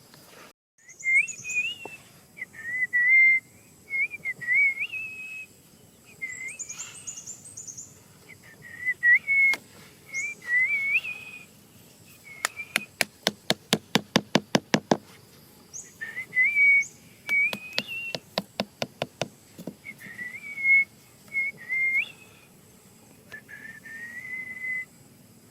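Short whistled, bird-like phrases that waver up and down in a high pitch, repeated with pauses, with a few fainter, higher chirps. Twice, about halfway through, a fast run of sharp clicks, about eight a second, lasting two to three seconds.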